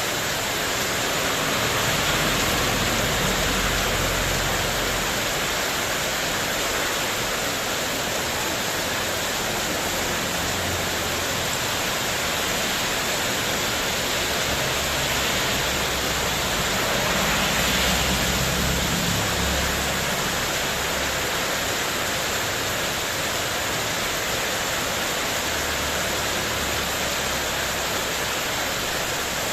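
Heavy rain pouring steadily onto a spandek (corrugated metal sheet) terrace roof in a windstorm, with low rumbling swells as the wind gusts.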